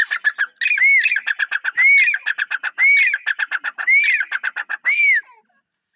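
Grey francolin calling, a loud phrase repeated about once a second. Each phrase is an arched, rising-then-falling note followed by a quick run of sharp clipped notes. The calling stops shortly before the end.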